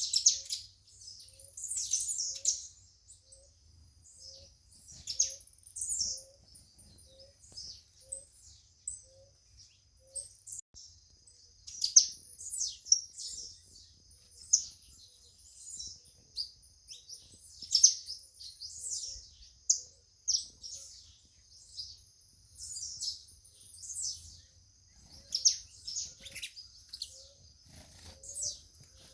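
Several songbirds chirping, with short high chirps coming in clusters every second or two over a steady high-pitched drone. A faint low note repeats about twice a second for the first ten seconds and again near the end.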